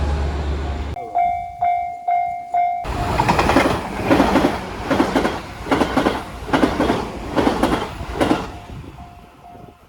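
A train running on rails with a rhythmic clickety-clack of wheels over rail joints, about two knocks a second. A railway crossing bell rings four times in the first seconds and is heard faintly again near the end.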